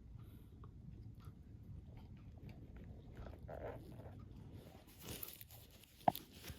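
Crunchy snack being bitten and chewed, heard as scattered small crunches over a steady low stomach rumble, with a short gurgle about three and a half seconds in and a sharper, louder gurgle-like pop near the end.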